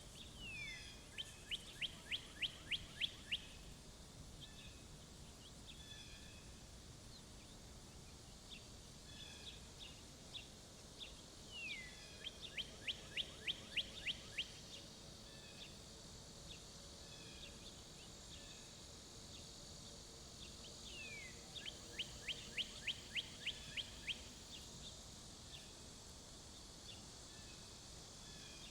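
A songbird sings the same song three times, roughly ten seconds apart: each song is a quick downward slur followed by a rapid, even series of about ten sharp notes. Faint chip notes come in between the songs.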